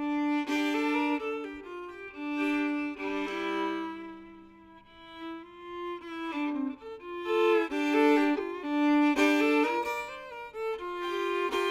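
Fiddle playing a quick melody line, often sounding two strings at once, with a lower note held for a few seconds midway.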